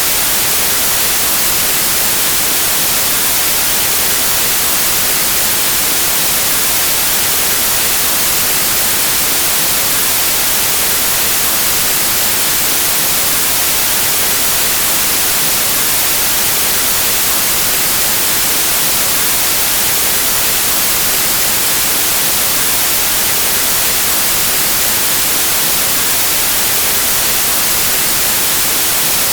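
Steady white noise: an even, unbroken hiss of static with constant level throughout.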